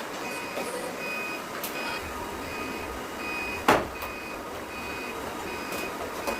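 An electronic beeper sounding short, high beeps at an even pace, about one every three quarters of a second. There is a single loud knock a little past the middle.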